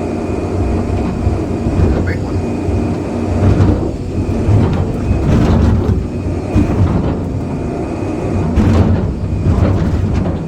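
John Deere excavator's diesel engine running hard with a steady low rumble and a steady higher whine, while the bucket breaks up concrete, with a few louder crunches and knocks through the middle and near the end.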